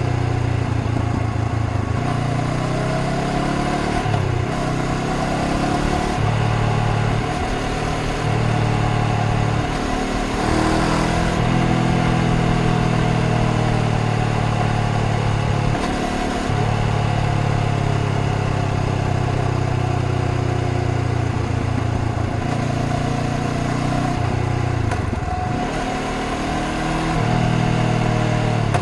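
Honda CBR500R's parallel-twin engine running under way on the road, its note rising and falling with the throttle and broken by several brief dips.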